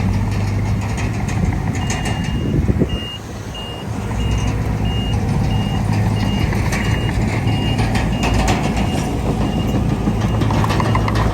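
A reversing alarm beeps steadily, about one and a half beeps a second, over the running diesel engine of heavy earthmoving equipment. The engine sound drops briefly about three seconds in.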